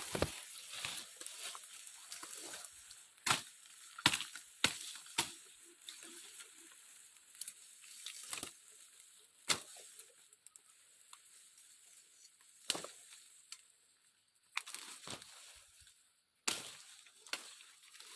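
Twigs and brush being snapped, cut and handled: a dozen or so irregular sharp cracks with crackling in between, over a steady high hiss.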